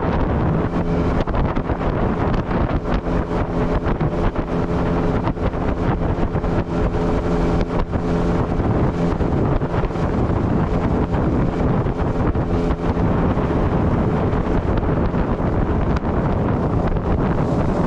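Tarpon 9.9 outboard motor running steadily, driving the boat along with a constant engine hum. Water rushes beneath the hull and wind buffets the microphone in irregular gusts.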